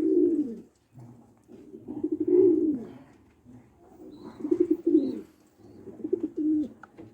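Domestic pigeons cooing, four low rolling coos with short pauses between them.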